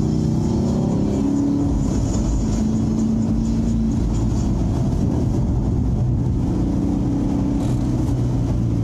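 Chevrolet Camaro SS's 6.2-litre V8 engine heard from inside the cabin, running on track with its pitch rising and falling as the throttle and gears change, over steady road noise.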